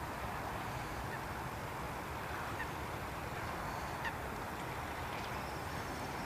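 A few short, faint bird calls over a steady low rumbling noise; the clearest call comes about four seconds in.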